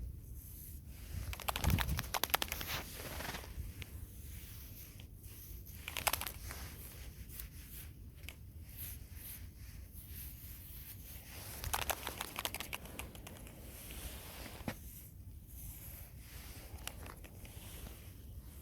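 Crinkling, crackling rustles in a few short bursts, with scattered small clicks in between, as of material being handled at close range during gardening work.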